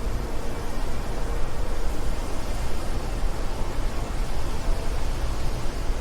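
Steady wind noise: an even hiss with most of its weight low down, rising and falling a little in loudness, with no separate events.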